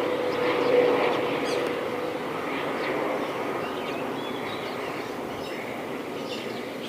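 Airbus A321 jet noise fading away: a drone with a steady hum that peaks about a second in and then slowly dies down, while small birds chirp more and more.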